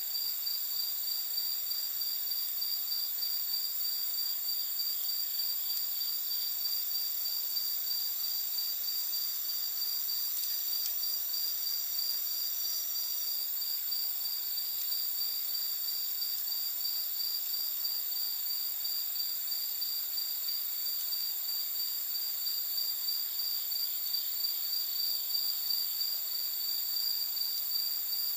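Night insect chorus, crickets or similar, trilling steadily at several high pitches, the strongest trill pulsing evenly, over a soft hiss with a few faint campfire crackles.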